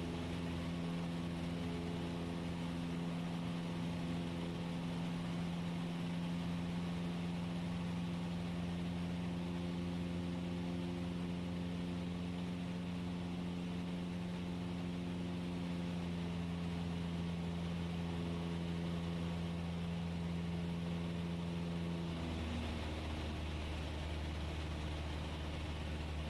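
Cessna 172S's four-cylinder Lycoming piston engine and propeller droning steadily from inside the cockpit during the go-around climb. About 22 seconds in, the pitch steps down as power is reduced.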